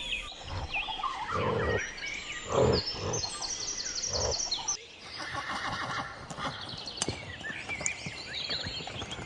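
A horse neighing, in three short bursts in the first half, over high chirping in the background.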